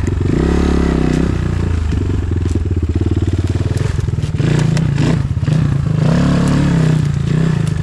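Enduro dirt bike engine revving up and down in repeated bursts at low speed as it is worked over difficult ground, with a few sharp knocks.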